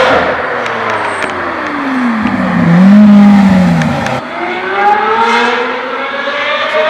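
Sports car engine revving: its pitch falls over the first couple of seconds into a loud, low note, then after an abrupt break about four seconds in, the revs climb again.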